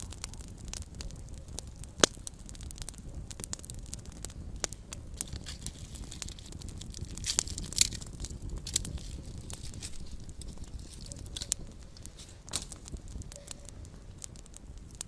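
Small wood fire crackling, with irregular sharp pops and snaps over a low steady rumble of the flames. The loudest pops come about two seconds in and again about halfway through.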